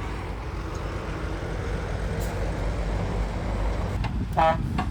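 Heavy diesel earth-moving machinery running steadily with a low rumble. Near the end a brief pitched toot sounds twice.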